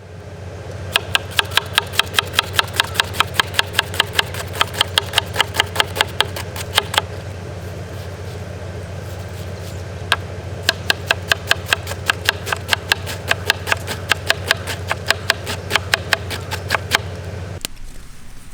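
Knife chopping rapidly on a wooden cutting board, about four or five strokes a second, in two runs with a pause of a few seconds between them. A steady low rumble lies underneath and stops shortly before the end.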